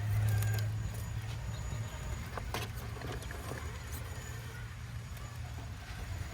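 A small electric RC crawler's motor and drivetrain whirring at low speed, loudest in the first second or two, with scattered clicks and knocks as it crawls over rock.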